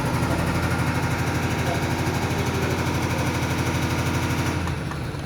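Diesel injection test bench driving a Mercedes Actros unit pump during a leak test: a steady machine run with a fast, even pulsing that drops away about four and a half seconds in.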